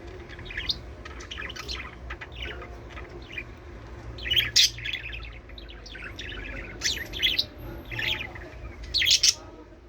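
Budgerigars chirping and warbling: a busy run of short chirps, with louder calls about four and a half seconds in and again near the end.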